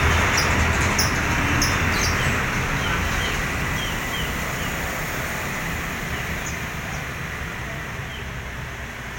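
Small caged songbirds chirping briefly and repeatedly over a steady hiss and low rumble that slowly fade.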